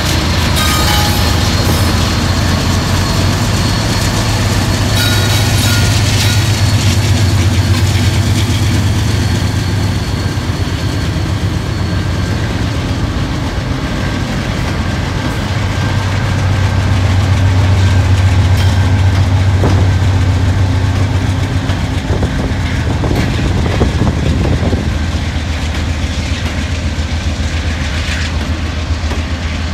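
Norfolk Southern diesel-electric freight locomotives passing close by, their engines running in a deep steady drone that swells twice as units go past, with the wheels clacking over the rail joints.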